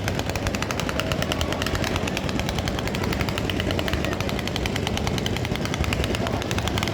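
A long string of firecrackers going off in rapid succession: a fast, unbroken rattle of sharp bangs, many per second.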